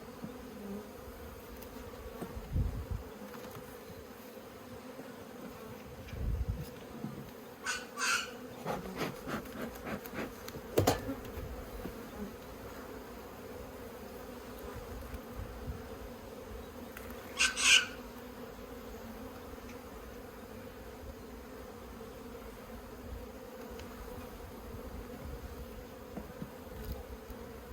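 Honeybees humming steadily around an open top bar hive, with a few short knocks and scrapes around eight, eleven and eighteen seconds in.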